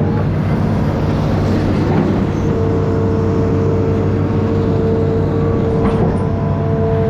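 An amphibious excavator's engine running steadily, a low drone with a steady whine above it and a few faint knocks.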